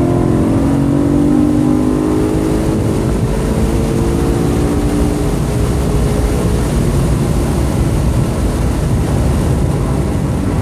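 BMW M3's 4.0-litre V8 heard from inside the cabin, pulling hard with its note slowly rising as the car accelerates down a straight. About six seconds in the engine note drops away as the driver lifts off and brakes, leaving steady road and wind noise.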